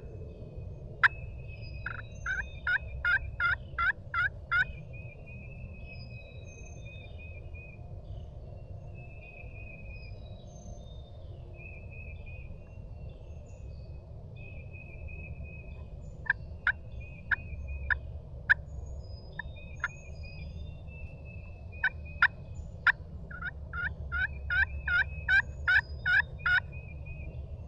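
Birds calling in the woods: runs of sharp repeated notes that speed up, near the start and again near the end, with wavering trills and short high chirps between, over a steady low rumble.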